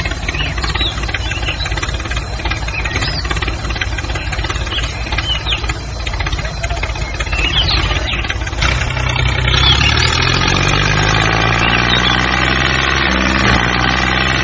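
An engine running, rough and rattling at first, with short high chirps over it. About nine seconds in it changes to a louder, steadier pitched hum.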